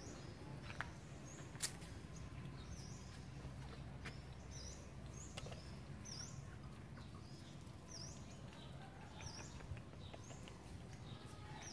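A small bird chirping repeatedly, short high notes every second or so, over a low steady background rumble. A sharp click comes about two seconds in.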